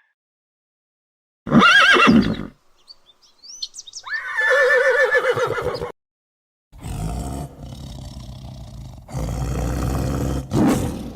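A horse whinnying: a short loud call with a wavering pitch about a second and a half in, then a longer quavering call about four seconds in. A stretch of low rumbling noise follows, with a brief loud cry near the end.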